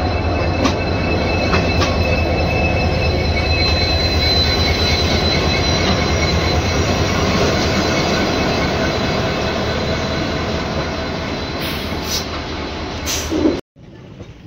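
Passenger train running on the rails with a steady rumble and a thin high wheel squeal over it; the sound cuts off suddenly near the end.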